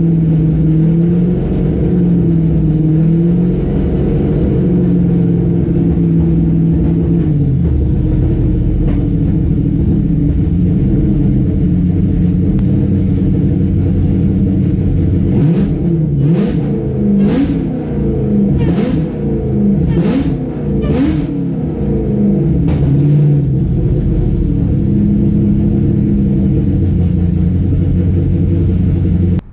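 Whipple-supercharged, cammed Ford Coyote V8 idling unevenly, then revved in about six quick throttle blips partway through before settling back to a steady idle.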